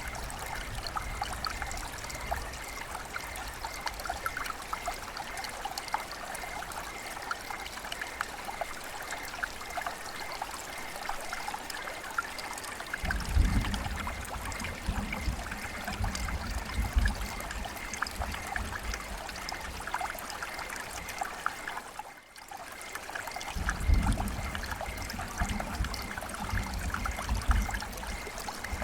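River water flowing and trickling: a steady rush flecked with small splashes. From about halfway a deep low rumble comes and goes, and the sound briefly dips about 22 seconds in.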